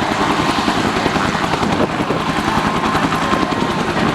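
Helicopter in a low display pass, its rotor blades chopping steadily and rapidly with a faint steady whine over them.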